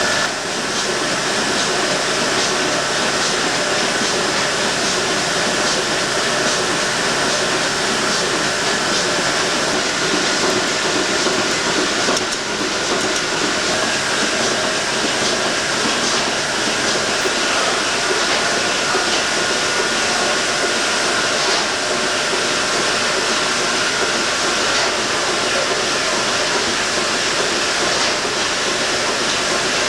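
Steady, loud machinery noise with a constant hiss and a few faint steady tones, broken by faint scattered ticks.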